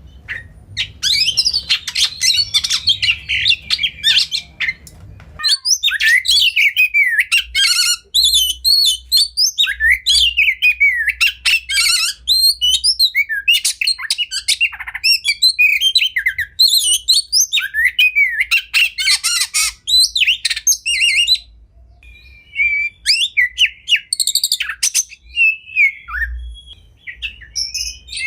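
Oriental magpie-robin (kacer) singing a fast, varied song of whistles, trills and scratchy notes, with imitated calls of other birds worked in. A low hum behind the song drops out abruptly about five seconds in.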